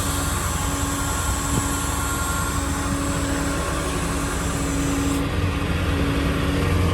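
The 7.3L Powerstroke V8 turbo diesel of a 2000 Ford F550 running steadily, a low, even drone with a steady hum above it. A high hiss in the background drops away about five seconds in.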